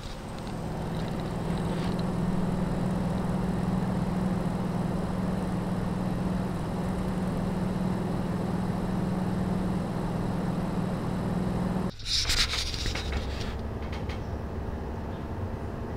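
120 mm PC case fans running for a noise test. One fan runs steadily with a low hum until about twelve seconds in; a brief clatter then follows as it switches to another fan, which runs with a quieter, steady whoosh.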